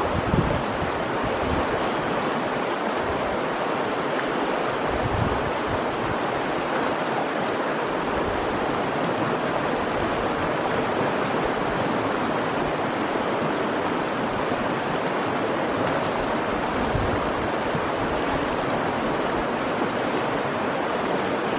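Mountain trout stream rushing steadily, a constant even hiss of running water, with now and then a low rumble of wind on the microphone.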